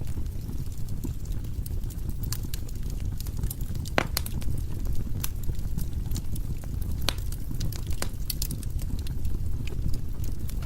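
Firewood burning in a fireplace: a steady low rumble of the fire with frequent sharp, irregular crackles and pops, a few louder snaps among them.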